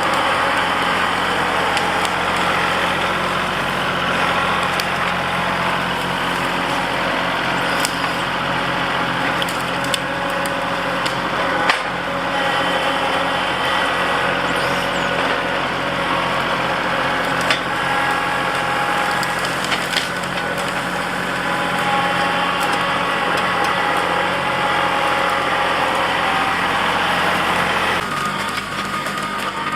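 Kubota L3901 compact tractor's three-cylinder diesel engine running steadily while the grapple works through brush, with a few sharp cracks of branches snapping.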